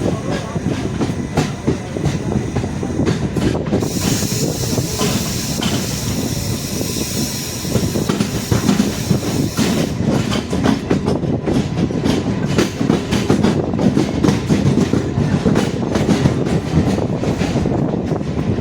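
MEMU electric multiple-unit train rolling along the track as it leaves the station, its wheels clacking over the rail joints with a steady rumble. There is a stretch of hiss a few seconds in, and the clacks come thicker in the second half.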